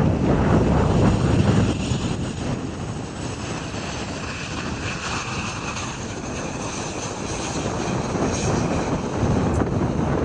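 Jet airliner engines: a loud rush with a thin whine over it through the middle, and wind buffeting the microphone.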